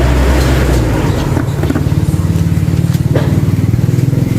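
A vehicle engine idling steadily; about a second in its tone shifts and a rapid, even pulsing beat comes through.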